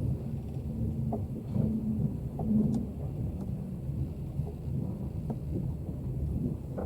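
Passenger train running: a steady low rumble with scattered short clicks and knocks.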